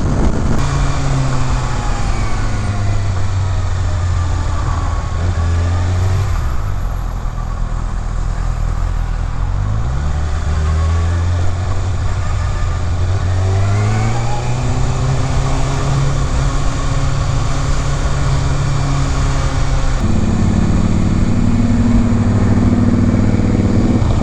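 Kawasaki Ninja ZX-6R's inline-four engine running under way, its pitch dropping a few seconds in, then climbing twice as the bike accelerates, with a step up near the end, over a steady rush of noise.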